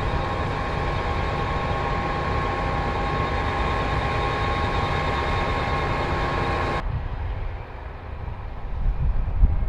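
Combine harvester running steadily at work, a hum of several held whining tones over a low rumble. About two-thirds of the way in the sound cuts off abruptly and drops quieter, then a low rumble swells again near the end.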